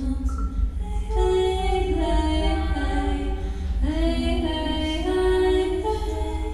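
A woman's voice singing long held notes a cappella, several vocal layers overlapping like a small choir and sliding from one pitch to the next.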